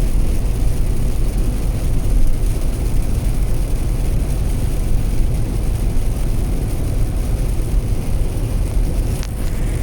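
Steady road rumble of a car driving, with a hiss of road and wind noise.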